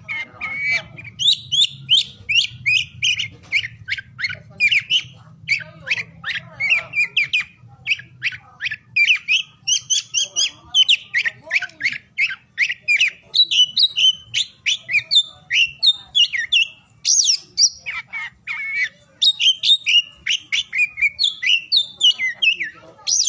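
Oriental magpie-robin (kacer) singing a fast, continuous run of varied chirps, whistled sweeps and harsh chattering notes.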